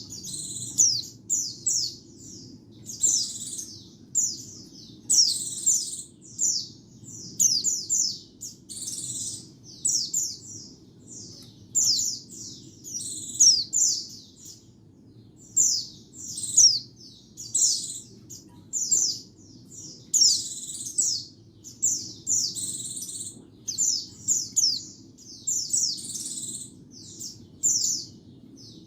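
White-eye (pleci) singing continuously: quick runs of high, thin chirps and twitters, one phrase after another about every second. A faint steady low hum lies underneath.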